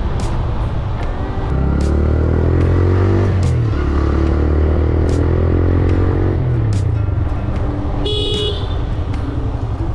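TVS Raider 125 motorcycle's single-cylinder engine pulling through the exhaust, rising in pitch, dropping at a gear change about three and a half seconds in, rising again, then easing off. A vehicle horn toots briefly near the end.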